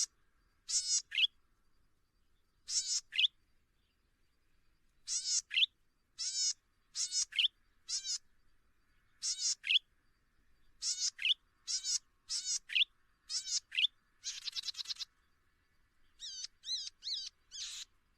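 A small songbird chirping: short, high-pitched calls come singly or in pairs about once a second. A brief buzzy rattle sounds about two-thirds of the way through, and a quick run of four notes follows near the end.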